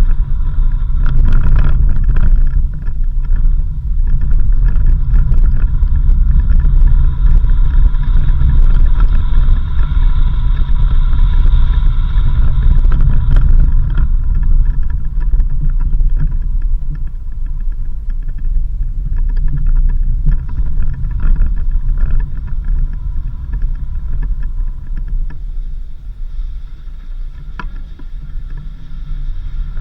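Car driving, a loud steady low rumble of engine and road noise, with a thin high steady tone that fades out about halfway through.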